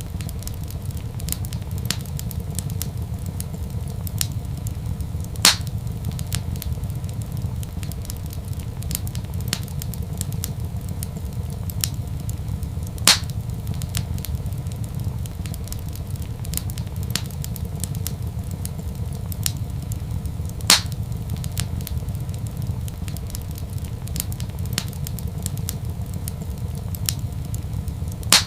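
Wood fire crackling in a fireplace over a steady low rumble, with many small ticks and a louder pop about every seven and a half seconds.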